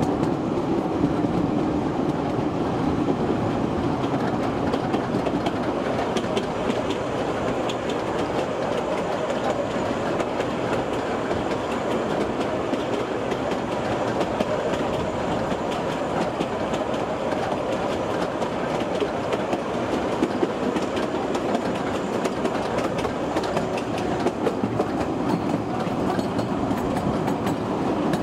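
Kurobe Gorge Railway narrow-gauge trolley train running at a steady pace: a continuous rumble of wheels on rail, with frequent clicks and rattles of the cars.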